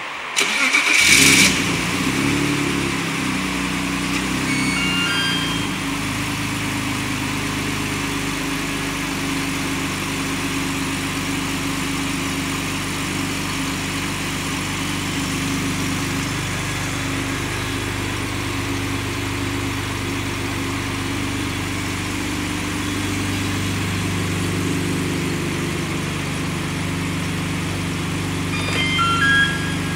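BMW car engine cranking and catching about half a second in, running at a raised idle for a few seconds, then settling to a steady idle. Brief series of short high chirps sound about four seconds in and again near the end.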